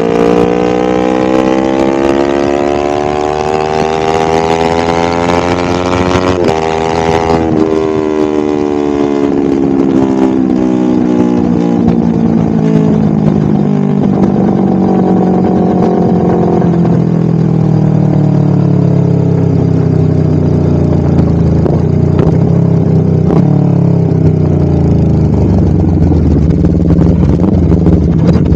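Honda CBR250RR with a DST full-system aftermarket exhaust, ridden: the engine revs climb for about six seconds, then the throttle shuts and the revs fall away slowly for some fifteen seconds, settling into a low, steady note near the end.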